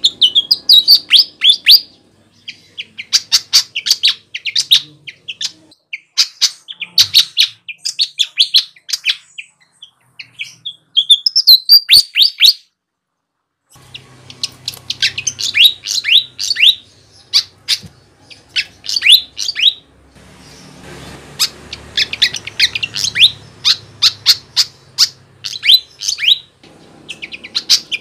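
Flycatcher (sikatan) singing: repeated phrases of fast, high, falling chirps separated by short pauses, with a dead-silent gap of about a second near the middle.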